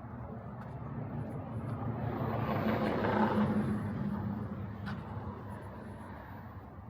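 A car driving past on the street: engine and tyre noise swell to a peak about three seconds in, then fade away.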